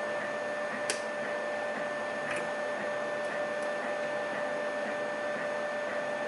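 Steady hiss and electrical whine of background noise, with a few small sharp clicks of a lock pick working the pins of a pin-tumbler lock: one about a second in and a few more between two and four seconds in.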